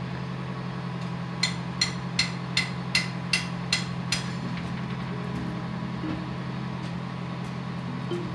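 A vehicle engine idling with a steady low hum. About a second and a half in comes a run of about eight sharp ticks, roughly three a second.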